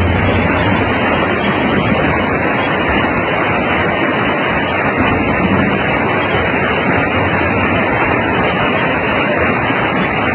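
Flash-flood torrent of rainwater rushing past, a loud, steady, unbroken wash of noise.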